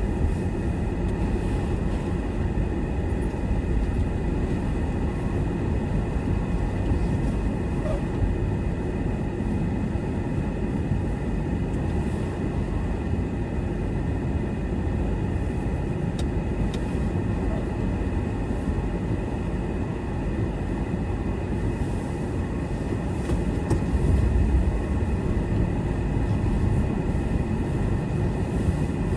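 A car driving, its tyres and engine making a steady low road rumble that swells slightly near the end.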